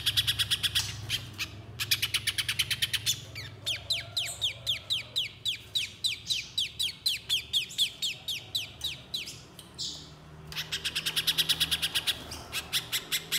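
Spiderhunter (pijantung pisang) song: bursts of rapid, sharp chips. In the middle comes a long even series of downslurred notes, about four or five a second.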